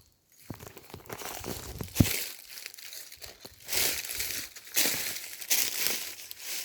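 Footsteps crunching and rustling through dry leaf litter and twigs, irregular, with a sharp twig snap about two seconds in and louder crunching steps roughly a second apart in the second half.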